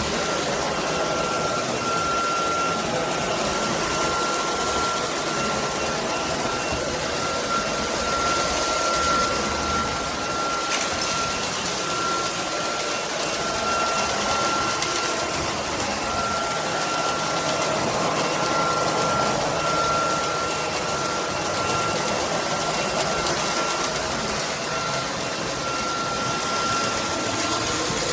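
SunSare X11 cordless stick vacuum running steadily: a constant rush of air with a steady high motor whine on top.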